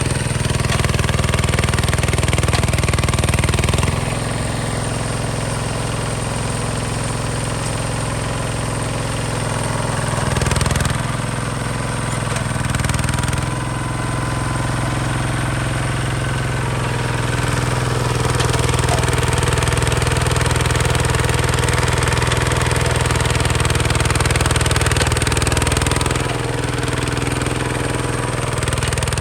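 Diesel engine of a Hinota HG Gold 155 DI tractor running steadily with a thumping beat. It eases off about four seconds in and picks up again later, as throttle or load changes.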